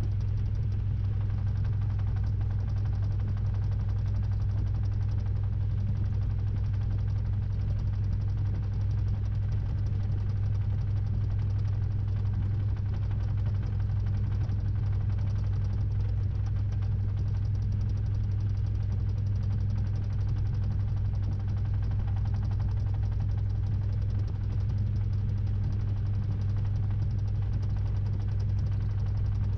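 Samsung 6.5 kg top-load washing machine running its spin cycle, heard from a camera inside the drum: a steady low motor hum that holds level throughout, with no start-stop rhythm of agitation.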